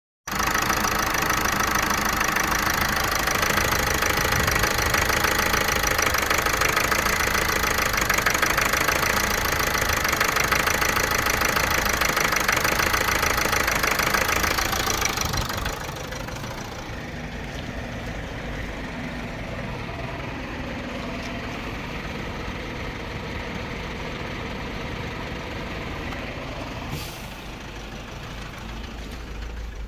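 Vauxhall Meriva 1.6 CDTI four-cylinder diesel engine running with a misfire, the car having logged fault code P0016 (crankshaft and intake camshaft position correlation). It is louder for about the first fifteen seconds, then quieter, with a single click near the end.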